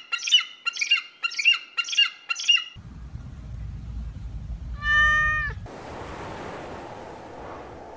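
Bald eagle calling: a series of five quick, high piping notes. Then, after a low rumble, a kitten gives a single meow about five seconds in, followed by a steady hiss.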